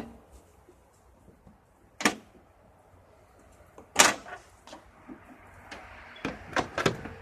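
Sharp knocks and clunks: one about two seconds in, a louder one about four seconds in, and a quick run of them near the end, over a faint hiss.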